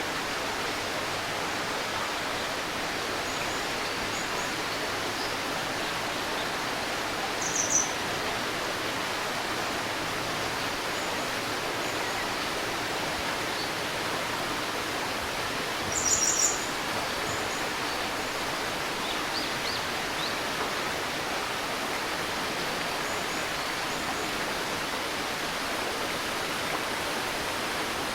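Steady rushing of a flowing stream, with a few short, high bird chirps over it, the loudest about a third of the way in and just past halfway.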